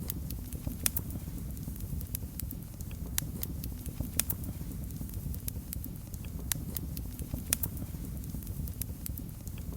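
Fireplace fire crackling: irregular sharp pops, roughly one to three a second, over a steady low rumble of the flames.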